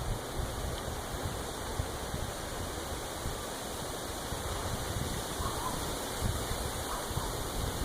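Gusty wind blowing, buffeting the microphone with uneven low rumbles under a steady rush.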